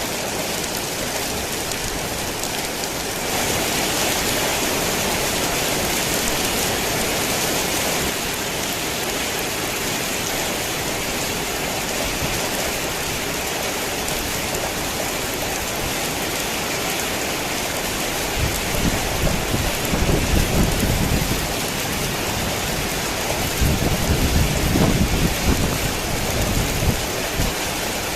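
Heavy rain pouring steadily, briefly heavier a few seconds in. Low rolls of thunder rumble under it twice in the second half.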